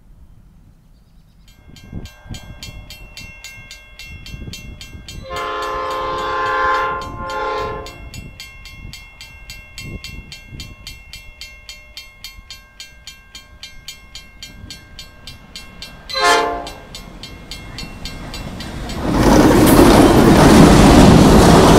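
Diesel freight locomotive sounding its horn on approach to a level crossing: a long blast and a shorter one about five to eight seconds in, then another brief blast about sixteen seconds in. The train then passes close by from about nineteen seconds, with loud engine and wheel noise.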